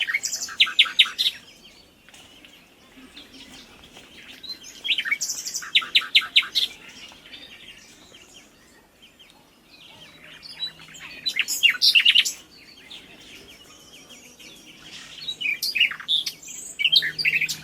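A bird chirping in four quick bouts of rapid high notes, each lasting about two seconds, with pauses of a few seconds between them.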